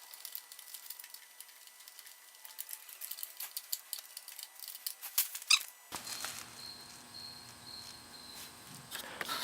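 Faint scattered clicks and light taps, one a little louder about five and a half seconds in, then a faint steady hum from about six seconds in.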